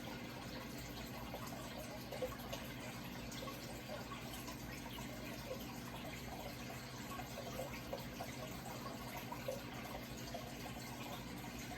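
Running water trickling and splashing steadily, with small bubbling drops throughout and a low steady hum underneath.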